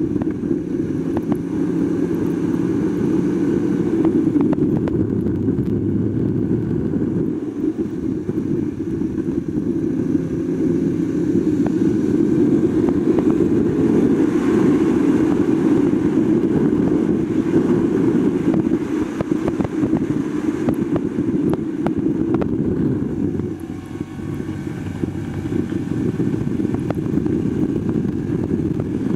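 Yamaha R1's crossplane inline-four engine running hard at track speed, heard from on board the bike, its note rising and falling. The sound dips briefly near the end.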